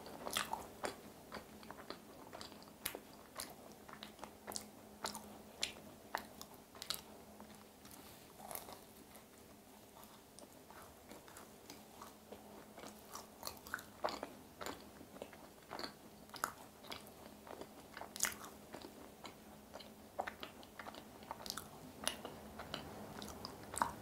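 A person biting and chewing a macaron: scattered soft crunches and small wet mouth clicks at an irregular pace, quiet in between.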